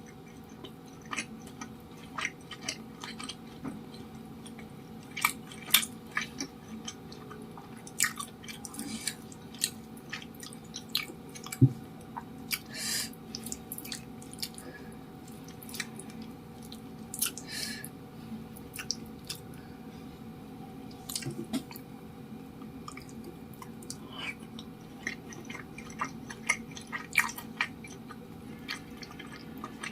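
Close-miked chewing of cilok, chewy tapioca-starch balls: wet mouth clicks and smacks scattered throughout, with a couple of longer squelchy sounds about 13 and 17 seconds in.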